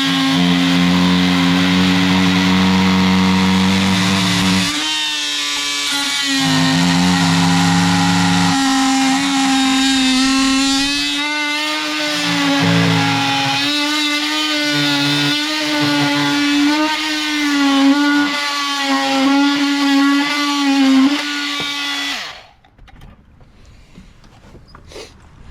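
Oscillating multi-tool buzzing steadily as its blade plunges into dry deck lumber, its pitch wavering as the blade loads up in the cut. It stops abruptly about 22 seconds in.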